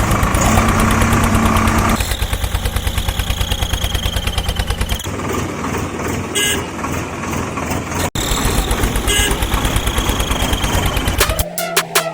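A vehicle engine running with a fast, even chugging pulse, and a steady horn-like tone over it for the first two seconds. About a second before the end it gives way to music with a beat.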